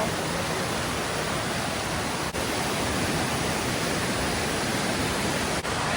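Waterfall water rushing, a steady even noise with no pitch. It cuts out very briefly twice, about two seconds in and again near the end.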